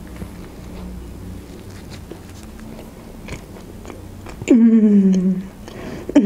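Close-up chewing of a bite of hamburger, soft wet mouth sounds with faint ticks. About four and a half seconds in, a long, slightly falling hummed 'mmm' from the eater, and a shorter one near the end.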